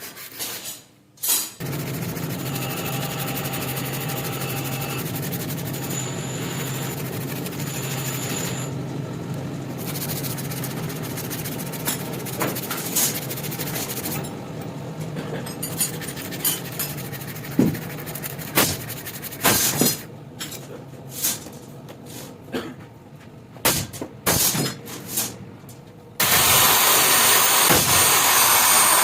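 A power tool runs steadily with a low hum for over ten seconds and then stops. Scattered sharp knocks and taps follow. Near the end a loud grinding noise starts abruptly, typical of a power tool working the steel blade.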